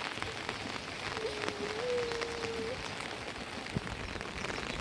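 Steady rain falling, with many small drop impacts. A short held call, slightly rising in pitch, sounds about a second in.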